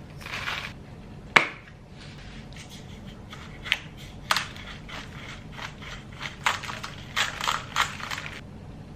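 Dried Italian seasoning being dispensed from its container: a sharp click about a second and a half in, then scattered short gritty crunching strokes, with a quick run of them near the end.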